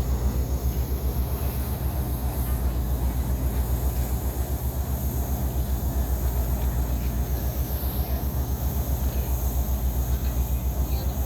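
A ship's engine running steadily: a deep, low throb with a fast, even pulse and a faint hiss above it.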